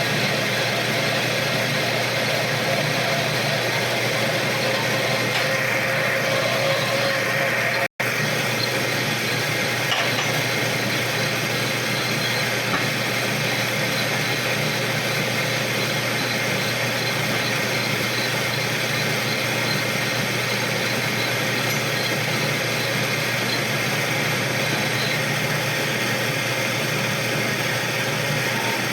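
Metal lathe running steadily while machining a steel sleeve fitted into an alloy bearing hub. The sound drops out for an instant about eight seconds in.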